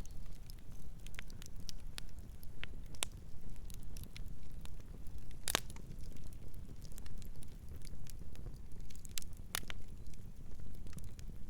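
Campfire crackling: burning wood gives irregular sharp snaps and pops over a steady low rumble, with one loud pop about halfway through and another near the end.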